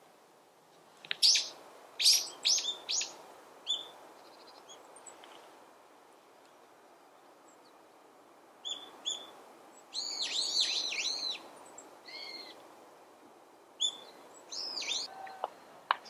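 Small birds calling: a quick burst of sharp, high chirps about a second in, then a run of repeated arching calls around ten seconds in, and a few more chirps near the end.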